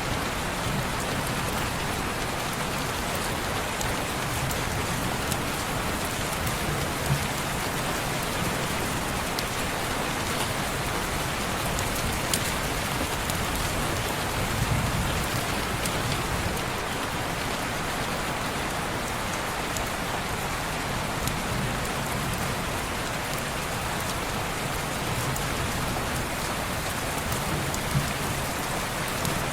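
Steady rain falling on window glass, an even hiss with a few sharp ticks scattered through and a brief low swell about halfway.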